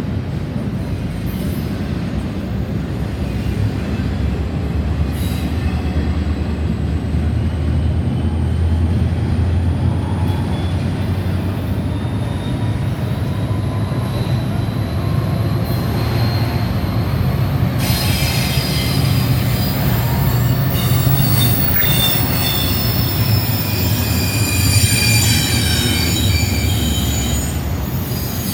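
Double-stack intermodal freight train rolling past: steady low rumble of steel wheels on rail. A faint whine rises slowly in the first half, then several high wheel squeals ring together through the second half.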